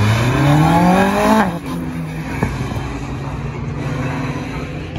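Rally car accelerating hard from the start: the engine note climbs steadily in pitch for about a second and a half, then drops sharply at the upshift. The engine then carries on lower and quieter as the car pulls away, with a single sharp crack about a second later.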